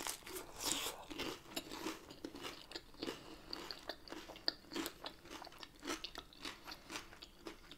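Chewing a mouthful of crisp tortilla loaded with shrimp ceviche: a run of small, irregular crunches.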